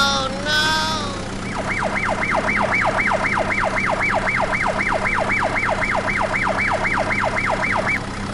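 Electronic yelp siren wailing rapidly up and down, about three sweeps a second, from about a second and a half in until near the end. It is preceded by two short honk-like tones with a bending pitch, over a steady low hum.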